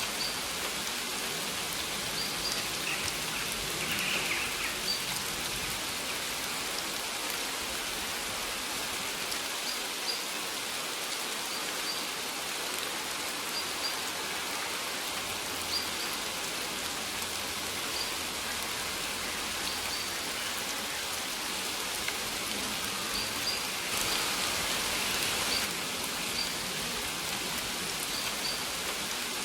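Steady rain falling and pattering on surfaces, with a bird giving short high chirps every second or two.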